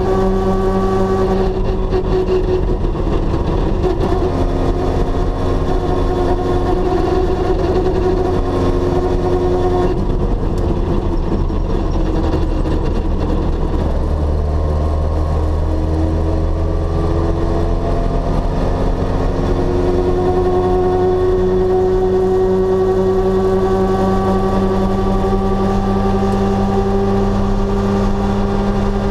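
Rally car's engine heard from inside the cabin. It drops in pitch as the car slows for a junction, then climbs as it accelerates away and settles into a steady cruise.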